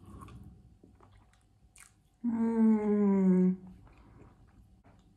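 A woman chewing a mouthful of noodles, faintly. Partway through she gives one long hummed "mmm" of enjoyment, falling slightly in pitch, which is the loudest sound.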